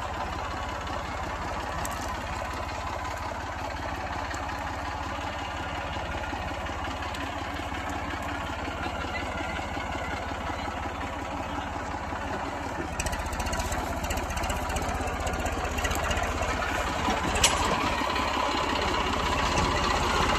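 New Holland 3230 tractor's diesel engine running, growing louder from about two-thirds of the way through.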